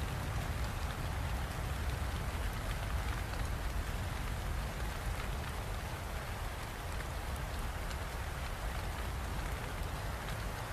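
Steady rain falling, an even, unbroken hiss with a deep rumble underneath.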